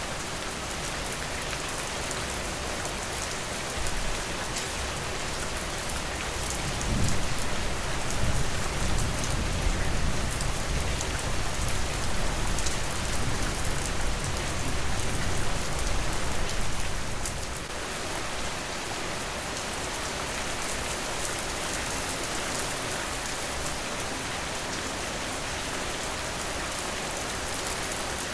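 Steady rain falling. A low rumble swells up about seven seconds in and fades out about ten seconds later.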